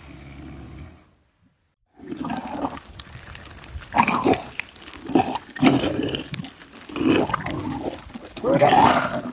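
Pig grunting and squealing in a string of about six loud calls, roughly a second apart, starting after a short silence.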